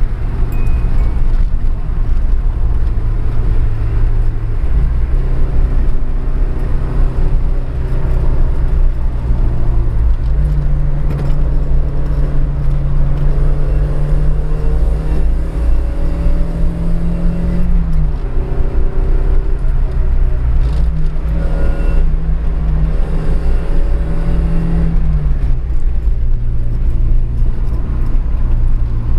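Toyota AE86 Sprinter Trueno's four-cylinder engine, heard from inside the cabin while driving under load over a steady road and tyre rumble. The engine note climbs slowly twice, dropping back about two-thirds of the way through and again near the end.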